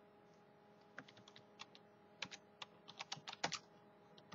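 Quick irregular run of light clicks, like keys being typed, starting about a second in and growing busier toward the end, over a faint steady electrical hum.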